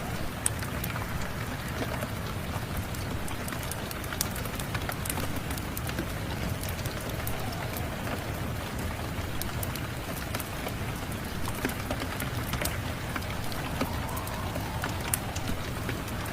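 Steady rain mixed with a wood fire crackling, sharp pops and snaps scattered irregularly over the even hiss of the rain.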